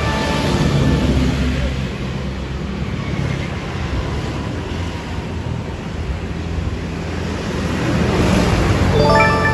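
Large vehicles passing close by on a road: a steady low engine rumble with tyre and wind noise, swelling about a second in and again near the end.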